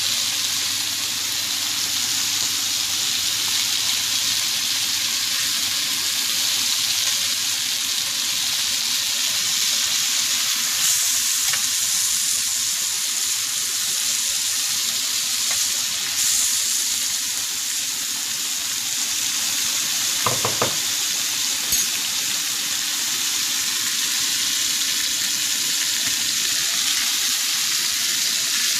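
Chicken pieces sizzling steadily in hot oil on a large, thin-based tawa pan, with a few short utensil knocks about two-thirds of the way through.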